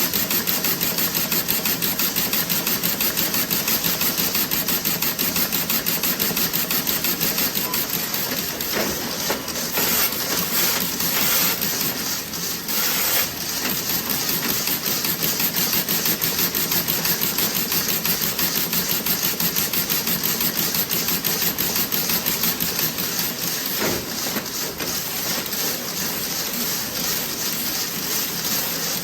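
Toe-sock knitting machine running, a fast, steady rhythmic clatter of its needles and carriage, with a brief rush of noise about ten seconds in.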